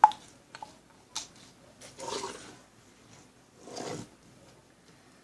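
Objects being handled on a table: a sharp click at the start, two light taps, then two short rustling scrapes.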